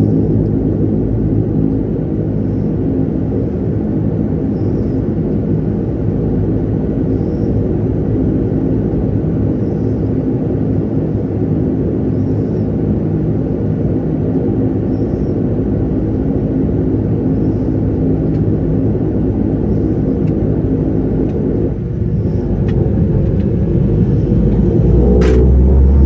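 Dash 8-300's twin Pratt & Whitney Canada PW123 turboprops and propellers running with a steady, many-toned drone. About 22 seconds in the sound shifts and grows louder, with a sharp click shortly before the end, after which a deep low drone comes in.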